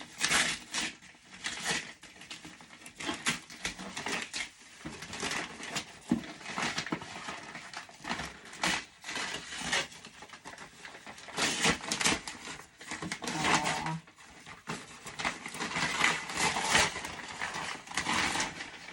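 Paper and packaging of a mailed parcel being torn and handled, an uneven run of rustles, crinkles and rips.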